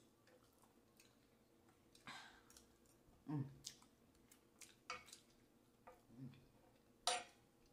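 Faint close-up eating sounds: chewing a mouthful of grits with the lips closed, light clicks of a metal fork against the food and board, and two short low hums through the closed mouth. A sharper click comes near the end.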